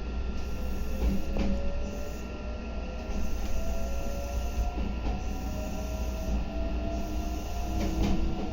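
Meitetsu 3150 series electric train running, heard from inside. A motor whine climbs slowly in pitch, drops back and climbs again a couple of times, over steady running noise with a few sharp clicks from the rails.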